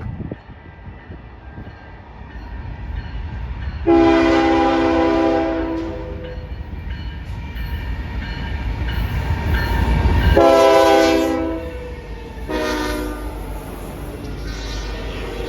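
Approaching CN freight train's diesel locomotive horn sounding several chords at once. One long blast starts about four seconds in, then three more follow from about ten seconds in, the last still sounding at the end. Under the horn, the low rumble of the locomotives grows louder, peaking around ten seconds.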